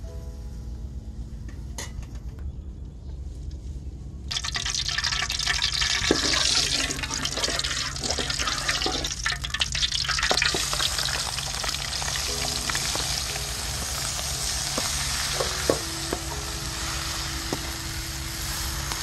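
Food sizzling in hot oil in a pan, starting suddenly about four seconds in, with the clicks of stirring. Background music plays throughout.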